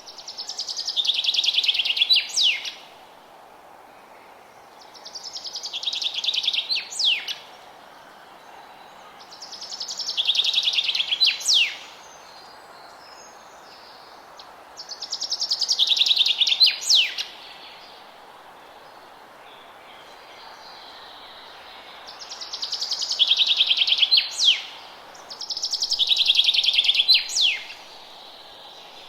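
A songbird repeats the same song six times, each a fast trill of high notes that grows louder for about two seconds and ends in a few sharp downward-sweeping notes, with pauses of two to four seconds between songs. A steady background hiss runs underneath.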